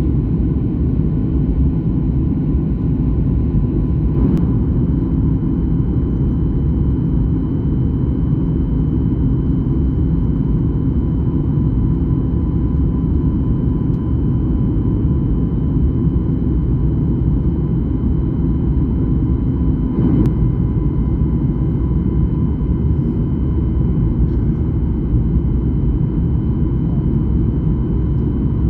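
Steady rumble of an airliner's cabin in flight, engine and airflow noise with a few faint steady whines above it. A low hum drops away about two-thirds of the way through, and there are two faint clicks.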